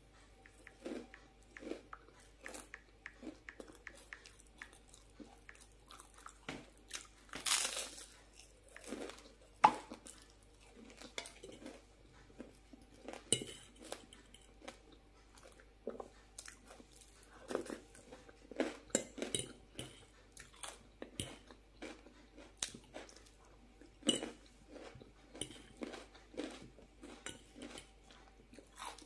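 Close-up eating sounds: a crispy puffed rice cake topped with avocado being bitten and chewed, with irregular crackling crunches. Now and then a fork clicks on the plate.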